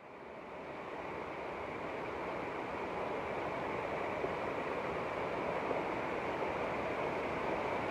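Steady rushing of water, swelling over the first couple of seconds and then holding even.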